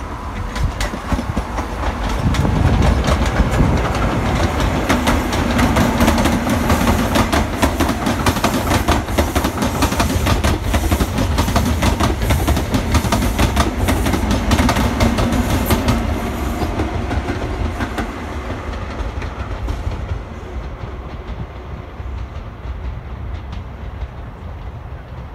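Network Rail New Measurement Train, an HST with diesel Class 43 power cars, passing close by on jointed track. A deep diesel rumble builds about two seconds in, then a dense run of wheel clicks over the rail joints follows, and it fades steadily as the train draws away over the last several seconds.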